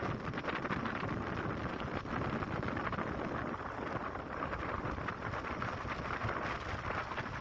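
Wind buffeting the microphone on a moving motorbike, over a steady rush of engine and road noise.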